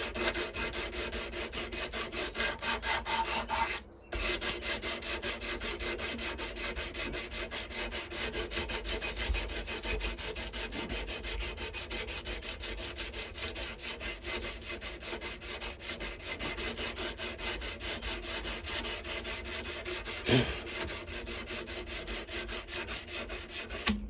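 120-grit sandpaper rubbed by hand in quick, even back-and-forth strokes along a steel knife blade, sanding out deep scratches. The strokes stop briefly about four seconds in, and there is a single knock near the end.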